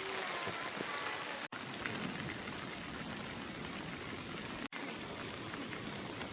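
Heavy rain falling steadily, with scattered drops ticking; the sound cuts out for an instant twice.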